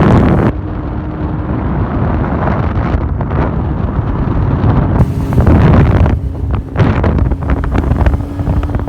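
Heavy wind buffeting on the microphone over the running engine of a quad bike fitted with a Honda CBR600F2 inline-four motorcycle engine, ridden at speed.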